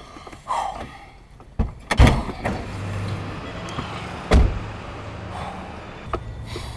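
A Honda CR-V's engine running at idle, a low steady hum that sets in about two and a half seconds in. Two heavy thumps come about two seconds apart, the second the loudest.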